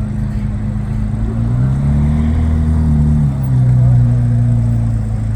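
Car engine idling, revved once about a second and a half in, held briefly and then dropped back to idle.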